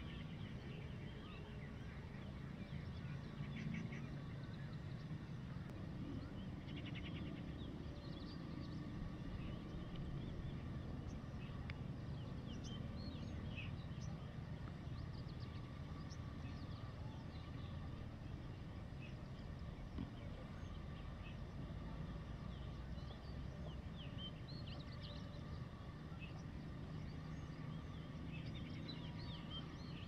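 Faint, scattered chirps of small birds in the background, coming in little clusters, over a steady low outdoor rumble.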